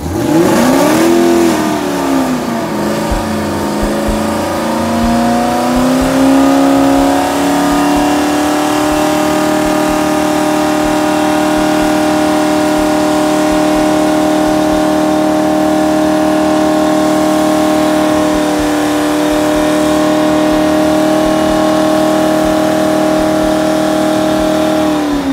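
First-generation Chevrolet Camaro's engine revving for a burnout, its rear tyres spinning on the wet pad: a quick blip, then a climb to high revs that is held steadily for about fifteen seconds, with a brief dip, before falling off at the end.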